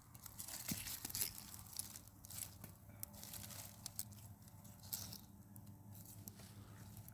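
Irregular rustling and crackling, like material being crumpled or torn by hand, with scattered light clicks.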